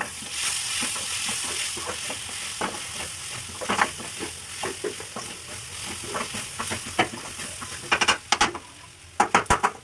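Onion masala with pounded garlic-chilli paste sizzling in hot oil in a pan while a spoon stirs and scrapes it: a steady hiss under repeated scraping strokes, with a quick run of strokes near the end.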